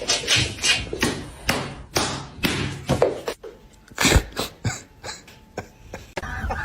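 A run of irregular taps and knocks, about two or three a second, with one louder thud about four seconds in.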